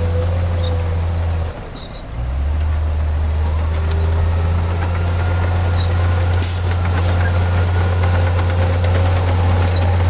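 Heavy diesel engine of an earthmoving machine running steadily with a deep drone. It dips briefly about one and a half seconds in, then comes back slightly lower.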